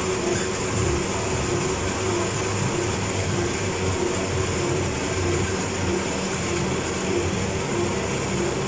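Hospital suction unit running continuously: a steady airy hiss over a low rumble, with a faint hum that pulses at an even rate.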